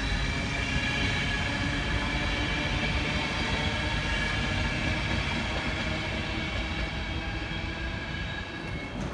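Passenger train running past and away along the track: steady wheel-on-rail noise with a high whine whose pitch sinks slightly as it recedes, easing off a little near the end.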